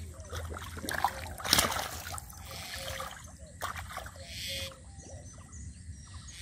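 Hands splashing and sloshing in shallow muddy water, in scattered strokes, with the loudest splash about a second and a half in.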